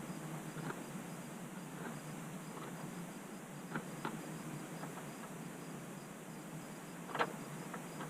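A few sharp clicks and taps of parts and tools being handled while the battery hold-down is fitted, the loudest about seven seconds in. Under them is a steady low hum, with a faint, evenly pulsing high chirp.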